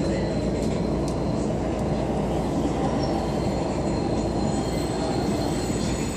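Electric commuter train running on the rails, heard on board: a steady rumble of wheels and running gear, with a faint high-pitched whine over it.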